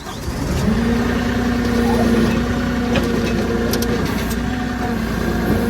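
Truck engine revving up in the first second, then running steadily at raised speed.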